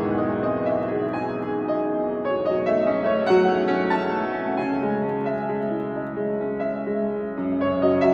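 Solo piano playing a slow, gentle piece, notes ringing over one another.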